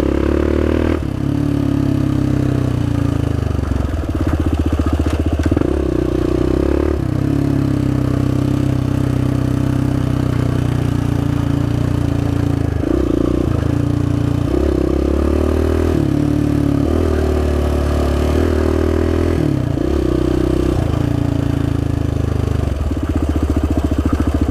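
Suzuki DR-Z400S single-cylinder four-stroke dirt bike engine running while riding, its pitch stepping up and down repeatedly with throttle and gear changes.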